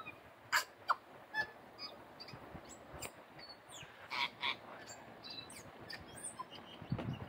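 A bird singing a broken song of short, varied notes: clicks, brief chirps and croaky and whistled calls with pauses between them. A few low thumps come near the end.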